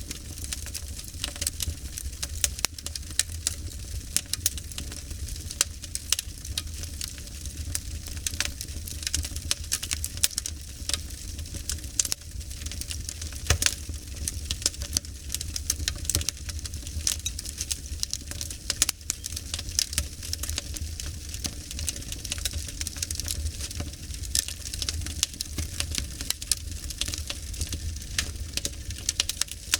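Wood fire crackling, with frequent irregular sharp pops and snaps over a soft hiss and a steady low rumble.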